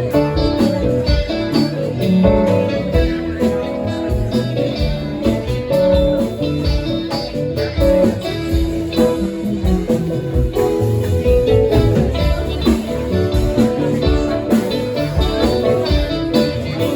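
Instrumental guitar break of a band song: picked guitar lines over a bass line and a steady beat.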